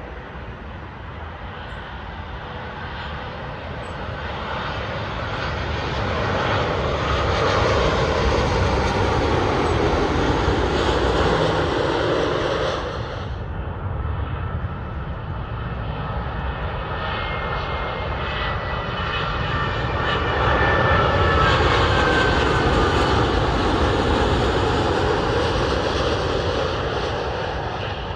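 Two Boeing 787 airliners on final approach passing low overhead one after the other: first an Air Canada 787-8 with GEnx engines, then a Virgin Atlantic 787-9 with Rolls-Royce Trent 1000 engines. Each swells to a loud jet rumble with a whine that falls in pitch as it goes over. The first breaks off abruptly about halfway through.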